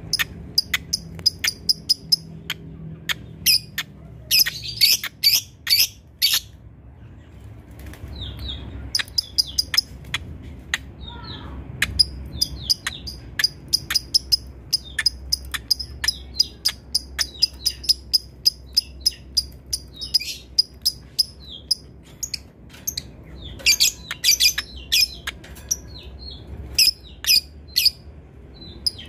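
Lovebird chattering: long runs of rapid, short, high-pitched chirps, broken by brief pauses. This is the long ngekek call that Indonesian keepers play to train other birds.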